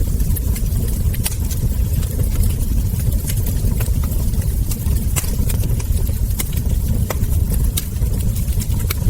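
Wood fire crackling: frequent irregular sharp pops and snaps of burning logs and embers over a steady low rumble of the fire.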